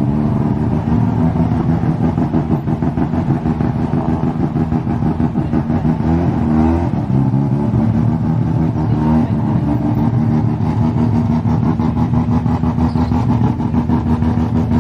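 Car engine idling, revved up and back down briefly twice, about six and nine seconds in.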